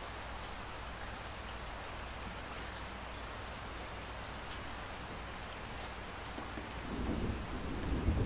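Steady rainfall, even and hissing, with a low rumble of thunder building from about two-thirds of the way in and growing louder near the end.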